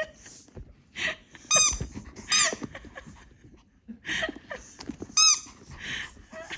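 Squeaky toy duck squeaking repeatedly as a small dog bites and chews it, three loud squeaks standing out among fainter squeezes and rustles.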